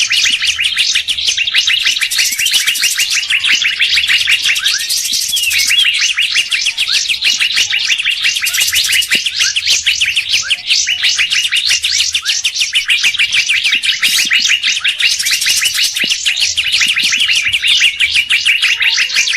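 Bird-lure recording of songbirds: rapid, unbroken high-pitched chirping and chattering, several birds' calls overlapping.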